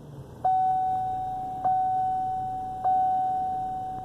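Pickup truck's cabin warning chime: a steady electronic tone that starts about half a second in and is re-struck about every 1.2 s, each strike fading a little, over a faint low engine hum.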